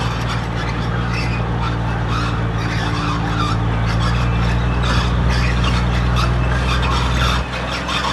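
Crawler bulldozer's diesel engine running steadily under load, with a scraping and squealing layer over it from the working machine. The engine note drops a little near the end.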